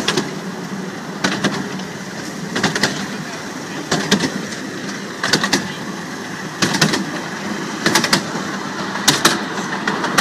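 Small amusement-park train running along its track: the wheels clack over the rail joints in quick pairs about every second and a quarter, over a steady running rumble.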